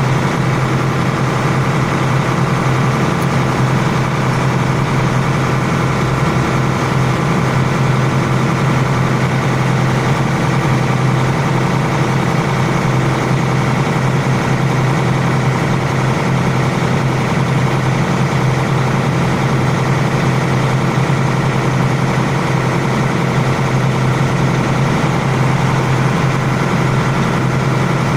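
An air-conditioning system running under a performance test after its blocked refrigerant circuit was flushed with R11. It gives a loud, steady machine hum: a strong low drone with several steady tones above it and no change in speed.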